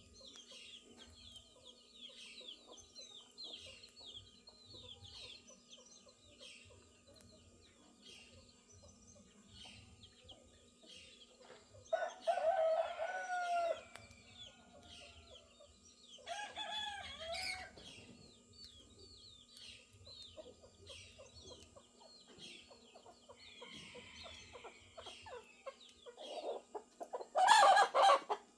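Roosters crowing three times: once a little before halfway, again soon after, and loudest near the end. A steady chorus of small birds chirping runs underneath.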